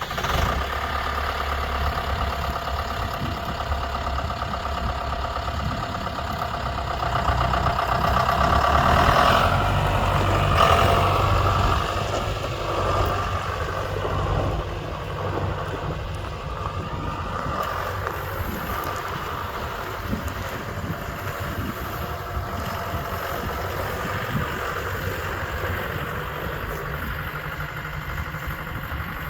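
John Deere 6420 tractor's diesel engine running. It grows louder for a few seconds about a quarter of the way in, then settles to a steady idle.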